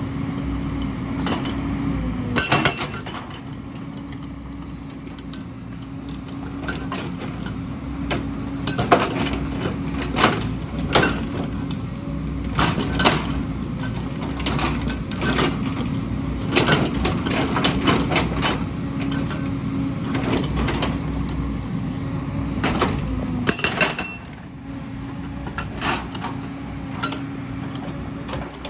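Hyundai excavator working: its engine runs with a steady drone while sharp metallic clanks and knocks come again and again as the bucket strikes rock and stone.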